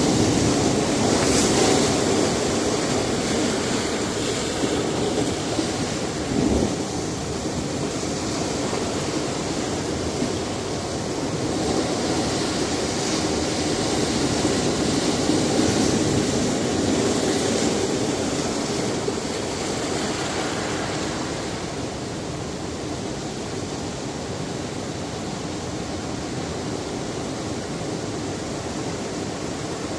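Sea surf washing onto a rocky shore: a continuous rush of waves that swells and eases, fuller through the first two thirds and softer near the end. There is one brief thump about six seconds in.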